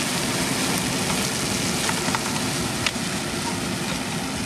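Motor grader working gravel: a steady noisy rumble and hiss, with a few sharp clicks about halfway through.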